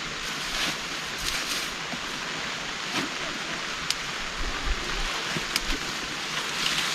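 Heavy rain falling steadily as an even hiss, with a few sharp drip taps and low rumbles from the wind.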